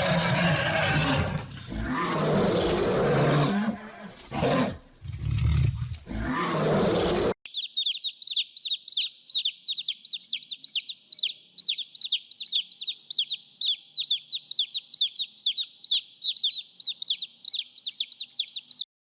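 A large animal's rough, roaring calls, with short breaks, for about seven seconds. Then an abrupt switch to a bird calling a fast, steady series of short high chirps, several a second, each dropping in pitch.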